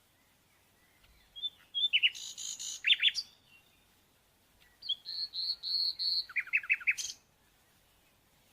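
A small bird singing two phrases, each a high trill followed by a quick run of short downward-sweeping notes, with a quiet gap between them.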